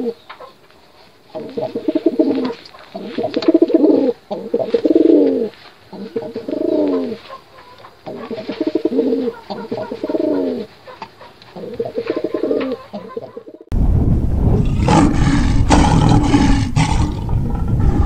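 Domestic pigeons cooing: a run of throaty coos, each about a second long, repeating every second or so. About three-quarters through, the sound cuts abruptly to a loud, rough noise with a roar in it lasting a couple of seconds.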